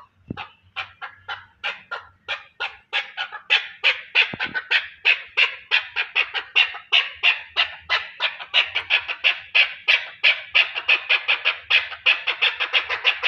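Chukar partridge calling a fast run of short repeated chuck notes, about five a second, building in loudness over the first few seconds and then going on steadily.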